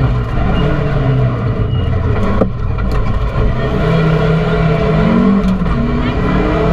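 Rally car's engine heard from inside the cockpit, driven hard with its pitch rising and falling, and a sharp knock about two and a half seconds in.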